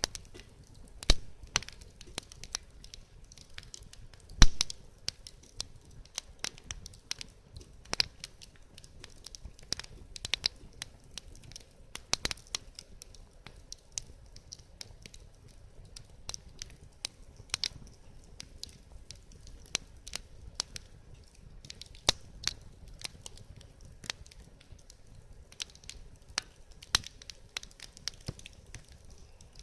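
Wood fire crackling, with irregular sharp pops and snaps from the burning firewood. A few louder pops come about a second in, around four and a half seconds in, and near eight seconds.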